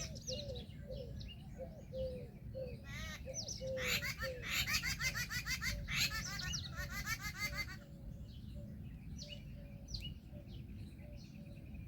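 Several birds calling: a low note repeated two or three times a second for the first few seconds, then a loud burst of rapid, chattering calls from about three to eight seconds in, then scattered short high chirps.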